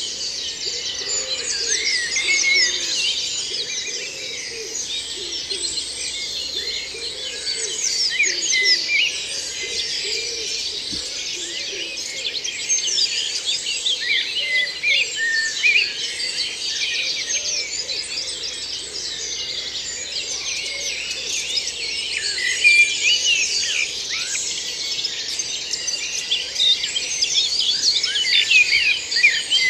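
Woodland dawn chorus: many songbirds singing at once in a dense, overlapping tangle of high, quick phrases. Lower-pitched notes run beneath them through the first half.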